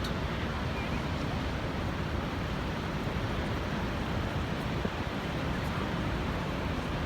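The Rhine Falls' water rushing in a steady, unbroken noise.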